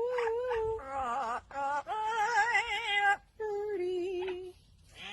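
A bird giving long, wavering, song-like notes: several held tones, each about a second long, with short breaks between them.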